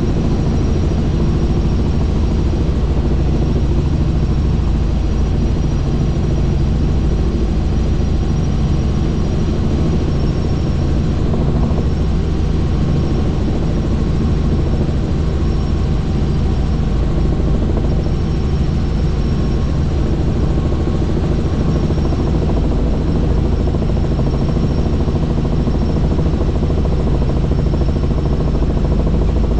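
Helicopter in flight, heard from on board: a loud, steady rotor and turbine drone with a thin high whine above it.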